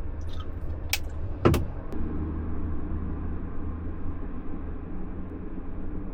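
A steady low rumble, with a few light clicks and two sharp knocks about a second and a second and a half in, the second one the loudest.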